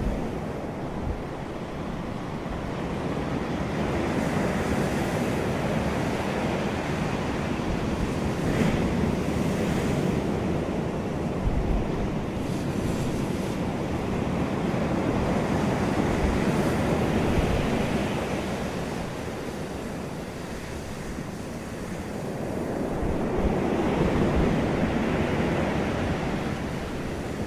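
Sea waves washing onto a beach, the surf swelling and easing every several seconds, with wind rumbling on the microphone.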